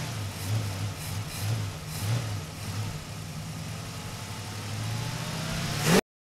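A motor running steadily with a low hum that pulses about twice a second, rising slightly in pitch near the end, then cutting off suddenly.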